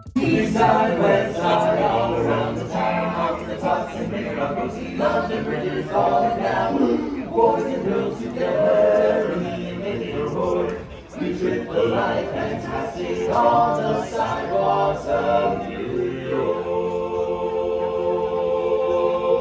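Several voices singing together in harmony without instruments, ending on a long held chord.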